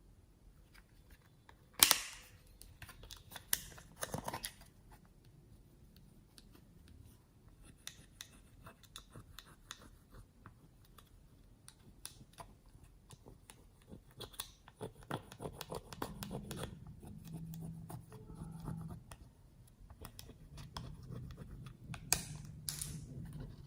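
Close-up handling sounds from slime mixing: a loud sharp click about two seconds in, scattered crackly snips and clicks, and two more sharp clicks near the end, with softer rustling and squishing in between.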